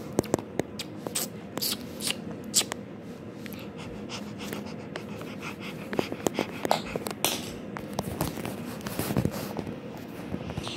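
Toys being handled: scattered light clicks and taps with a little rustling, a few louder knocks near the middle.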